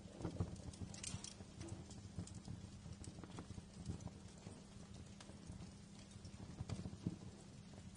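Wood fire burning in a fireplace: irregular crackles and small pops over a steady low rumble, with a cluster of sharper snaps about a second in.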